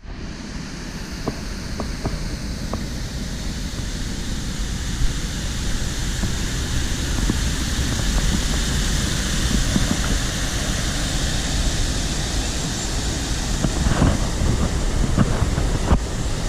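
Steady rushing noise of wind buffeting the microphone over moving water, with a few light taps in the first few seconds.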